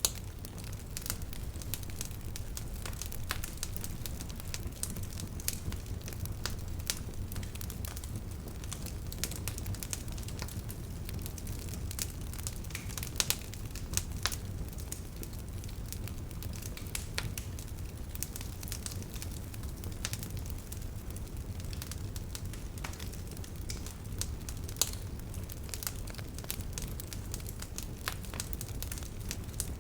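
Wood bonfire crackling: irregular sharp pops and snaps from the burning wood over a steady low rumble of the flames.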